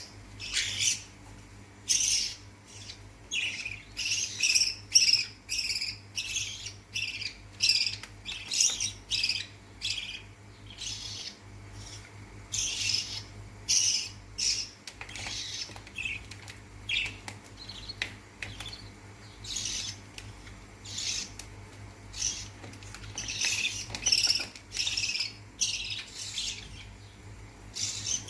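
Lovebird chicks' begging calls during feeding: short, high squawks repeated over and over, about one or two a second.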